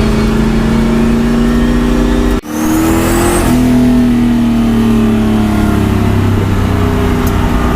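Turbocharged LS1 V8 drift car engine held at high revs, its pitch steady and slowly sliding. About two and a half seconds in the sound cuts out abruptly, then the revs climb briefly and settle back to a steady pull.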